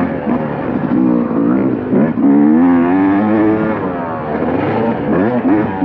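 KTM motocross bike engine revving under riding load, its pitch climbing and falling repeatedly as the throttle opens and closes, with a sharp climb about two seconds in and another near the end.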